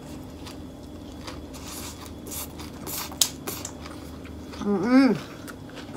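Close-up chewing of a bite of beef rolled in betel leaves and wrapped in fresh lettuce: soft wet clicks and small crunches. About five seconds in comes one short voiced sound.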